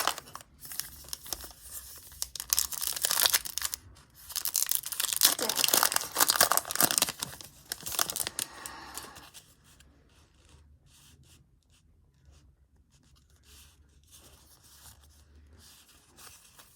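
A trading card pack's wrapper being torn open and crinkled, in dense rustling bursts for about nine seconds. After that, faint rustles and light ticks of the cards being handled.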